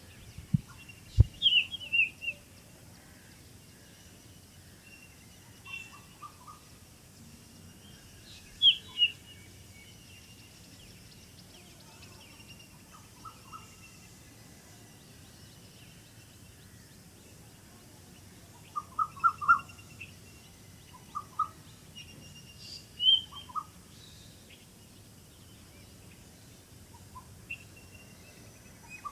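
Birds chirping in scattered bouts: quick high descending chirps and groups of short, lower notes, with pauses between, over a faint steady background hiss. Two brief low thumps come about a second in.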